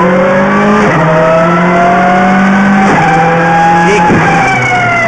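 Rally car engine at full throttle, heard from inside the cockpit. Its pitch climbs in each gear and drops sharply at each upshift: about a second in, about three seconds in and again about four seconds in.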